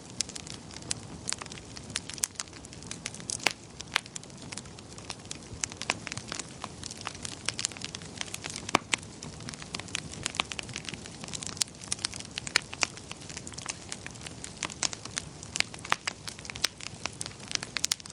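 Wood fire burning in a fireplace, with frequent sharp crackles and pops over a low, steady rumble of flame.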